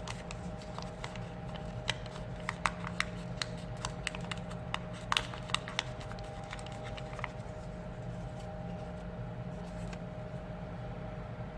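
Scattered light, crisp clicks and taps of paper being handled and creased, bunched in the first half and then dying away, over a steady low electrical hum.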